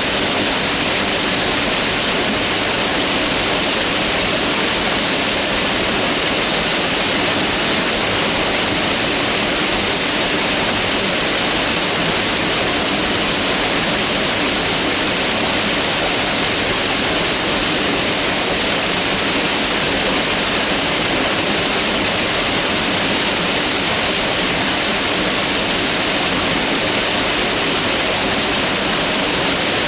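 Mountain river rushing over rocks, a loud, steady hiss of running water with no change.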